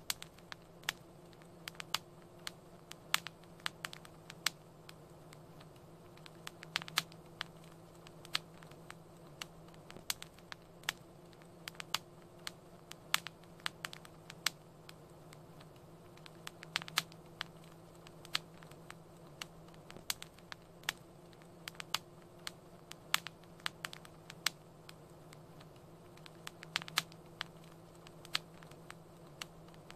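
Fireplace fire crackling: irregular sharp pops and snaps, a few a second, over a faint steady low hum and hiss.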